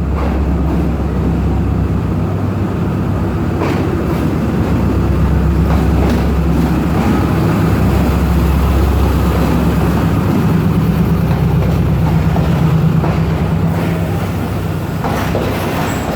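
Pakistan Railways passenger train arriving at a platform: a diesel-electric locomotive's steady engine drone, with coaches rolling past and scattered wheel clicks over rail joints.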